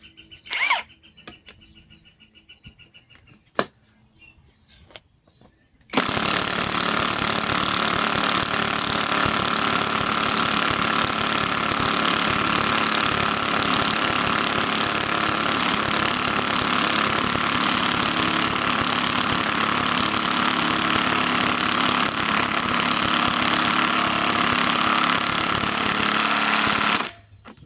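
Bauer cordless compact impact wrench hammering continuously for about twenty seconds, starting about six seconds in and cutting off near the end. A short blip and a sharp click come before it.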